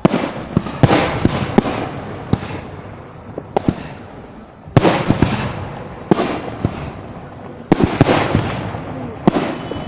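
Fireworks display: about ten sharp bangs of aerial shells going off at uneven intervals, each trailing off in a crackling fizz, with two heavier bursts about five and eight seconds in.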